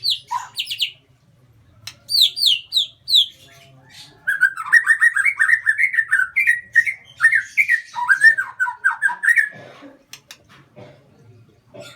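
A lovebird singing. It gives sharp falling chirps in the first three seconds, then a fast, chattering run of notes lasting about five seconds, and then a few faint clicks.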